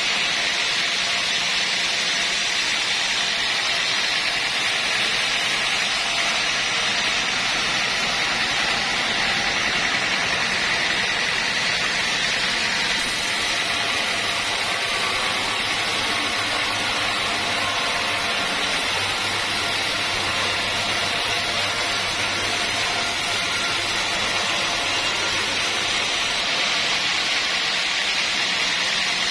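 Sawmill running steadily through a cut: a continuous high hiss with a low machine hum underneath, the hum shifting slightly a few times.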